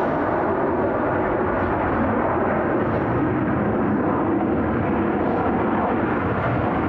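Steady roar of the Rolls-Royce Trent 700 jet engines of an SAS Airbus A330-300 airliner arriving on the runway.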